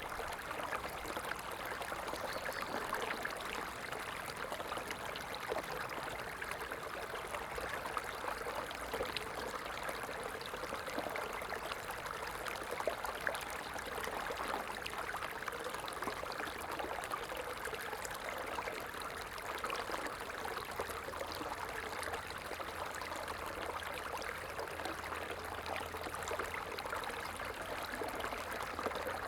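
Running water of a small stream, a steady babbling and trickling with fine splashes throughout.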